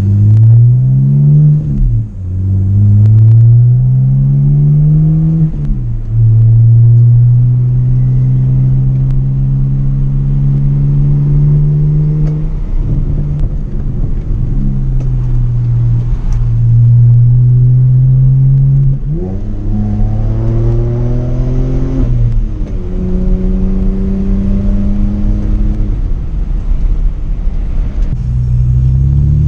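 Straight-piped BMW E90 exhaust under acceleration: the engine note climbs and drops back at two upshifts in the first six seconds. It then holds a steady drone while cruising, rises again briefly around twenty seconds in, and starts climbing once more near the end.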